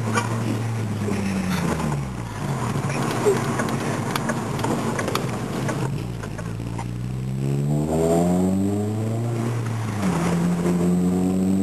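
Honda Civic Si's exhaust through an aftermarket Skunk2 70 mm exhaust system, the only modification on the car. The engine note falls off at first, goes rougher for a few seconds, then climbs in pitch under acceleration, drops sharply about ten seconds in as the driver shifts up, and climbs again.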